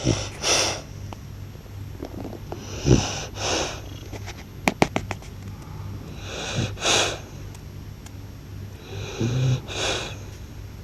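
A blue French Bulldog snoring loudly: about four snoring breaths roughly three seconds apart, each beginning with a short low snort followed by a noisy breath.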